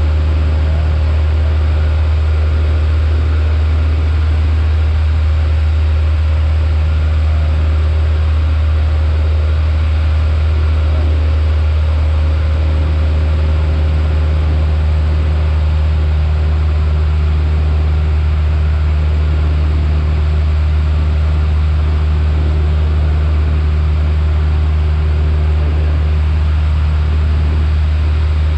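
Piper Warrior's four-cylinder Lycoming engine and propeller heard from inside the cabin: a loud, steady drone that holds unchanged throughout.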